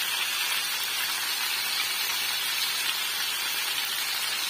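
Chicken chops frying in hot oil in a pan, a steady sizzle.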